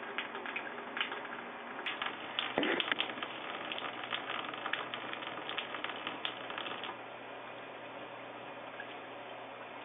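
Running water spraying in a steady hiss, with irregular pattering splashes for the first several seconds before it settles to an even rush.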